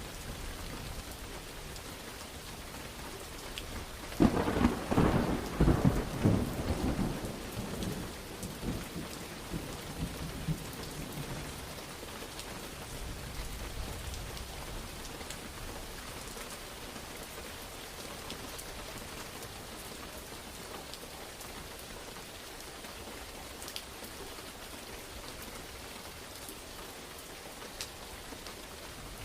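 Steady heavy rain falling, with a crack of thunder about four seconds in that rumbles on and fades over the next several seconds.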